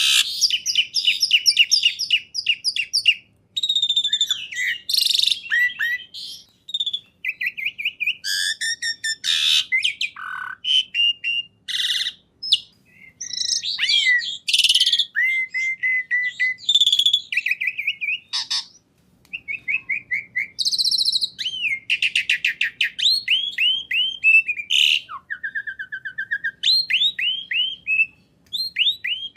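A songbird singing a loud, fast and varied song of whistles, trills and chirps in phrases, with brief pauses between them.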